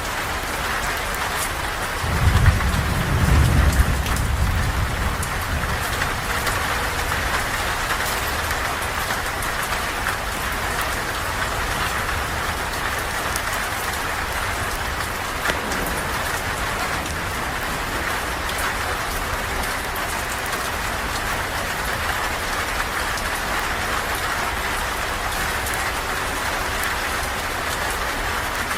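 Steady rain falling, with faint scattered crackles of a campfire. A low rumble of thunder swells about two seconds in and fades over the next few seconds.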